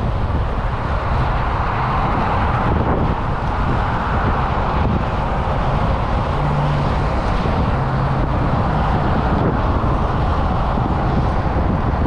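Wind buffeting the microphone over steady vehicle road noise while moving along the road, with a faint engine tone rising out of it twice in the second half.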